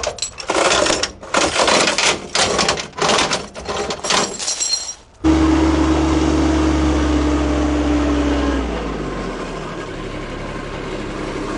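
Irregular bursts of rough, crackling noise for about five seconds. Then an engine starts running steadily, and about three seconds later it eases down to a lower, quieter run.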